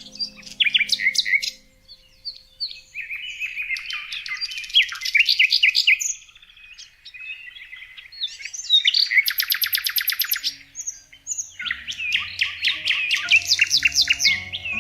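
Songbirds singing in four bursts of fast, high chirps and trills, with short pauses between.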